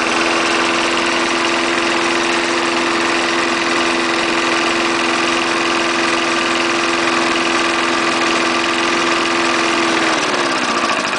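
3.5-horsepower Briggs & Stratton engine on a 1974 Snapper walk-behind lawn mower, running steadily at speed just after a one-pull start. Near the end its pitch falls as the engine slows down.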